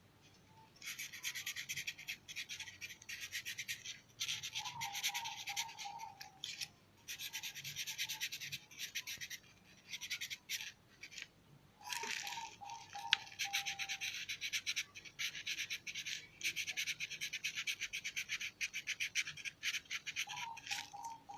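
Colouring on paper: fast back-and-forth scratching strokes of a drawing tool filling in colour, in runs of a few seconds with short pauses between them.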